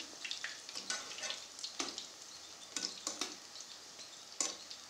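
Pakoras sizzling as they deep-fry in hot mustard oil in a steel kadhai, a steady crackling hiss. A metal slotted spoon stirring them scrapes and clinks against the pan several times, the sharpest clink near the end.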